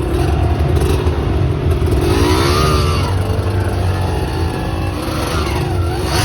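Off-road motorcycle engine running at low speed, its revs rising and falling twice as the throttle is blipped.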